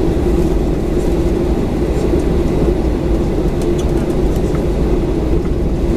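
Steady cabin rumble inside a Boeing 737-900, heard from a window seat behind the wing, with its CFM56-7B engines running at low power and a constant hum over the low roar.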